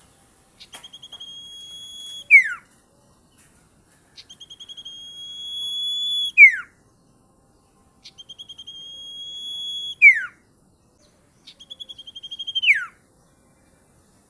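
A sirtu songbird calls four times with a shrill voice. Each call is a fast series of pulsed notes held at one high pitch that grows louder over a second or two, then ends in a loud, sharply falling note.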